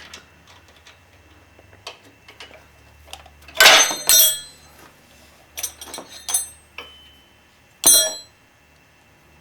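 Steel hand tools clinking and knocking against a motorcycle's metal suspension parts while the linkage bolt is worked loose: scattered light clicks and a few sharp clinks that ring briefly, the loudest about four seconds in.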